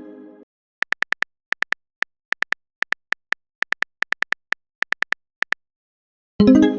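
Chat-app sound effects: a run of short, identical high keyboard-typing clicks in irregular bursts, about six a second, then a bright plucked chime near the end as a message pops up.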